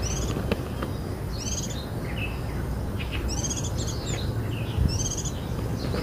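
A small bird calling: short runs of high chirps, about four times, over a steady low rumble.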